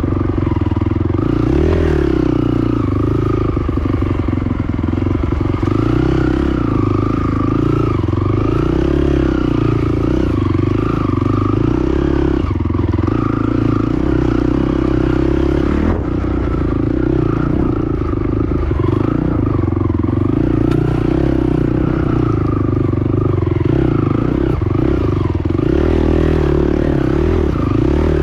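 Honda TRX450 quad's engine running continuously under changing throttle, its pitch rising and falling, with clatter and scraping from the machine over rough ground.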